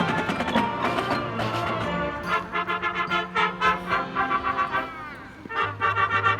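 High school marching band playing: sustained brass chords over low bass, then short rhythmic brass notes that thin out about five seconds in, before the full band comes back loud near the end.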